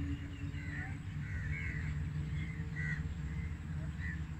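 Birds calling: a run of short calls, repeated every fraction of a second, over a steady low rumble.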